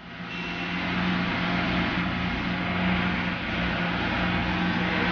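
Vehicle engine running steadily close by: a low hum under a loud, even rush of noise that builds over the first second and then holds level.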